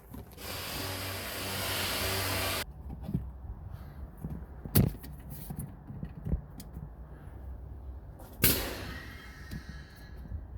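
A steady hiss of rushing air with a low hum under it, lasting about two seconds and cutting off suddenly. Later comes a sharp click, then a second, shorter hiss that fades out.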